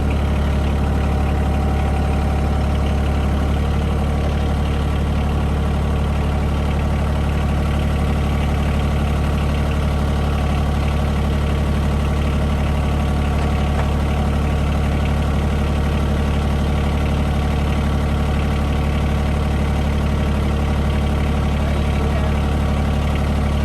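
Bad Boy tractor's engine running at a steady speed, with no change in pitch or load.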